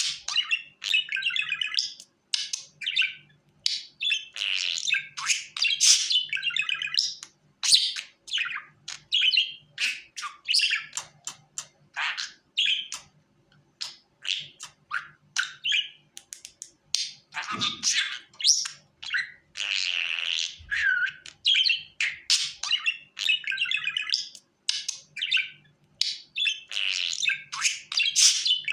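Budgerigar chattering: a fast, continuous run of chirps, squeaks and warbles, thinning out briefly about halfway through.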